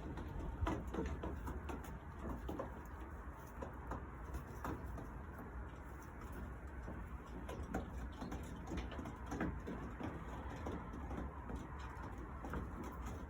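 Young pigeons in a loft cooing softly, with scattered short taps and rustles throughout over a steady low hum.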